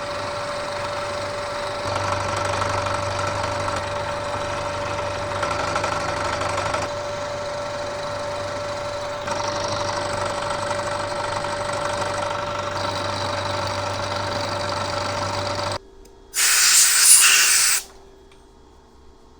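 Bridgeport milling machine running an end mill through a cut: a steady whine over a hum that shifts a little as the cut goes on, then stops suddenly near the end. A loud hiss of about a second and a half follows.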